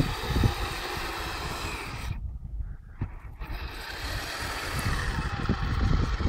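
Kyosho Blizzard radio-controlled snow vehicle's electric motor and tracks running. It drops away for about a second a couple of seconds in, then builds up again. A low rumble sits underneath on the phone microphone.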